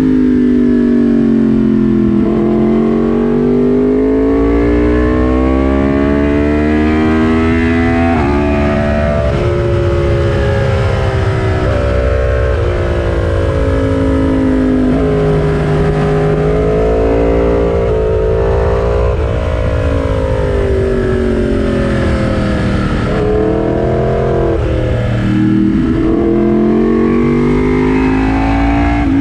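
Yamaha motorcycle engine running hard at track speed, its pitch falling as it slows for corners and climbing again under acceleration, with sudden steps at the gear changes. Steady wind rush sits under it.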